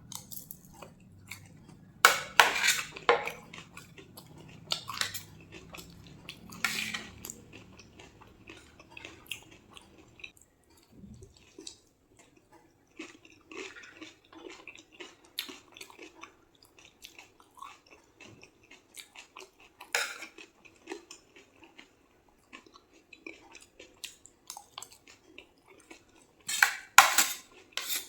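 Crispy panipuri shells being bitten and chewed close to the microphone: loud crunching in short clusters, with small clicks of plate and cutlery between.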